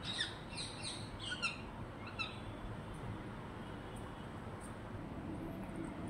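Birds calling: about five short, high chirps in the first two and a half seconds, over a steady low background rumble.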